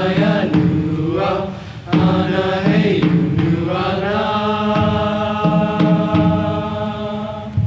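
Choir singing in several parts, closing on a long held chord in the second half.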